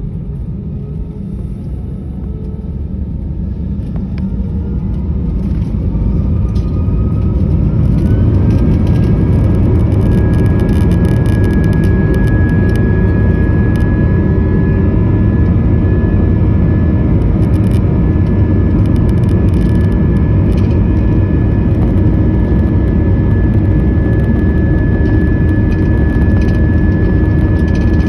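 Airliner's jet engines spooling up to takeoff thrust: a rising whine over a low rumble that grows louder for about eight seconds, then levels off into a steady loud roar with a high tone held on top.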